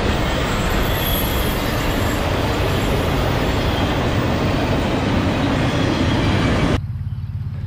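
Intermodal freight train of stacked containers and truck trailers passing close by: a loud, steady rush of steel wheels on rails and rolling cars. It cuts off suddenly near the end.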